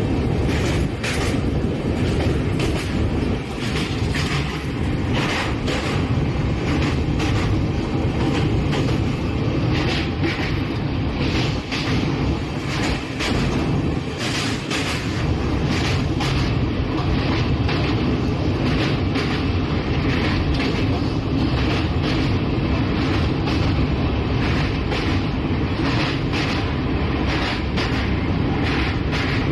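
Passenger train's LHB coaches running at speed: a steady rumble with a constant irregular clatter of wheels over the rails.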